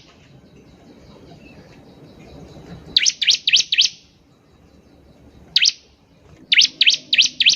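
Bar-winged prinia singing in short bursts of sharp, quick notes, each sweeping steeply downward in pitch. There are four notes in a rapid run, then a single note, then another run of four.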